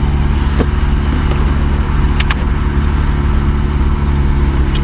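Steady low drone of an idling car engine, with a couple of faint clicks.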